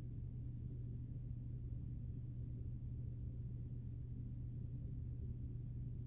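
Steady low hum with faint low rumble, unchanging throughout: room background noise from an appliance or the recording equipment.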